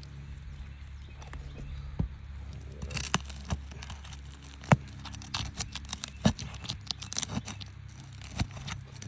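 Asphalt roof shingles being handled and pried up, with crackling, tearing and scattered sharp clicks that come thicker in the second half, over a steady low hum.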